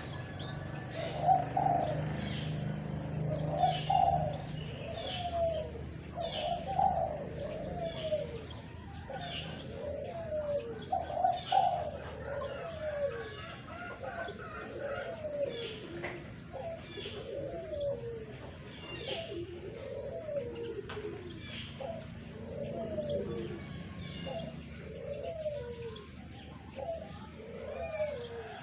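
Spotted doves cooing over and over, one low phrase after another without a break, with small birds chirping high and fast throughout.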